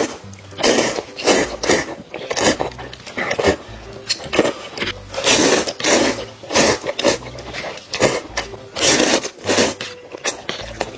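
Close-up slurping of rice noodles, a run of short loud sucking bursts with brief pauses between mouthfuls.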